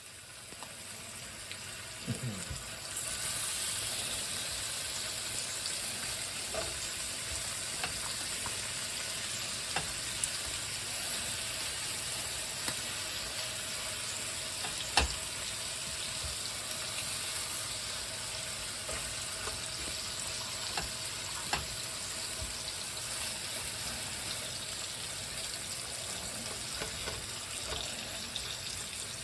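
Bacon and grease sizzling steadily in a frying pan, the sizzle getting louder about three seconds in. Scattered light clicks of a spoon against the pan, one louder knock about halfway through.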